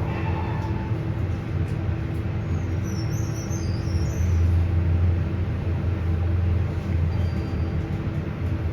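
Elevator car travelling down between levels, a steady low hum and rumble from the cab and its drive, with a faint brief high squeal about three seconds in.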